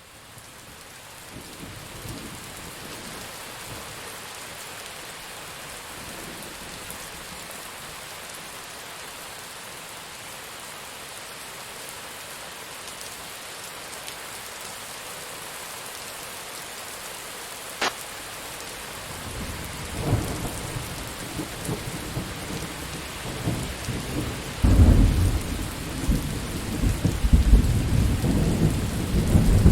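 Steady heavy rain that fades in at the start. About two-thirds of the way through comes a single sharp crack, followed by rolling thunder that builds into loud, deep peals near the end.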